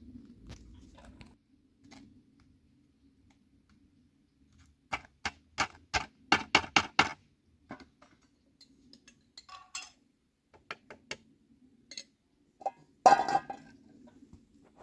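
Dishes and utensils clinking: a quick run of sharp clinks about five seconds in, a few scattered clinks after, and a louder clatter near the end.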